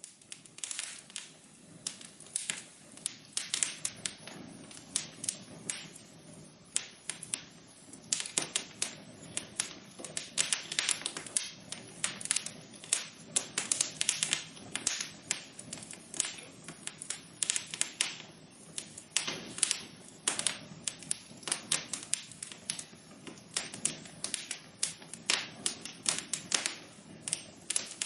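Wood fire crackling in a fireplace: irregular sharp pops and snaps, several a second, over a steady low rush of the burning.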